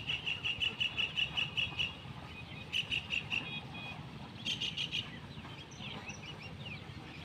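A bird calling a fast series of short, high repeated notes, about seven a second, which stops about two seconds in and returns in two shorter bouts; fainter chirps follow near the end.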